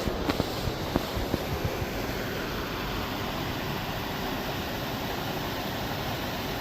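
Steady rushing of a waterfall, with a few light knocks in the first second and a half.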